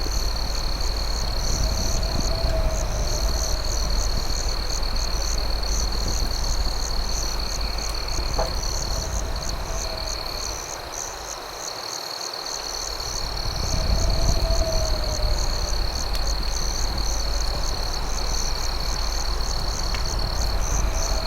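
Night insect chorus: crickets trilling in one steady high tone, with a second high chirp pulsing a few times a second, over a low rumble. A soft lower call comes and goes every few seconds, and there are one or two sharp pops like a crackling fire. The rumble fades briefly about halfway through, then returns.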